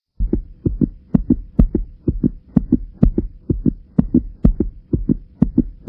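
Rhythmic deep thumps, often in close pairs and about one and a half pairs a second, like a heartbeat, over a faint steady hum.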